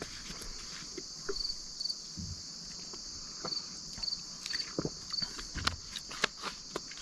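Steady high-pitched chorus of insects such as crickets, with a few short chirps standing out from it. Scattered small clicks and knocks, from things being handled, sound over it.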